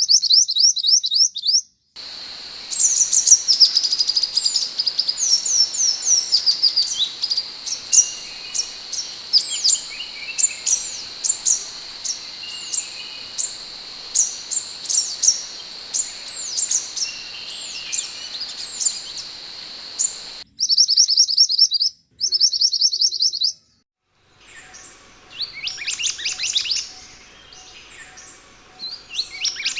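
Scarlet minivet (sepah hutan) calling: series of sharp, high whistled notes and fast trills, in spliced segments with brief silent gaps between them. A steady high-pitched hum runs under the middle stretch.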